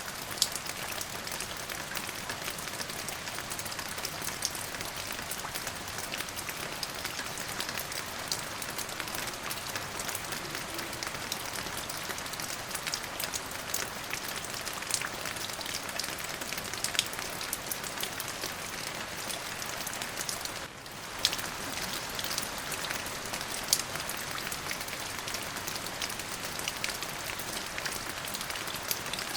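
Steady rain falling, with individual drops ticking sharply on a near surface. The rain dips briefly about two-thirds of the way through, then carries on.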